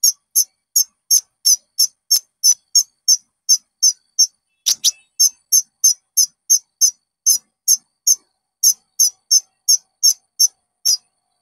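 Konin bird calling: a fast series of short, sharp, high-pitched notes, about three a second, with one louder, longer note about halfway through.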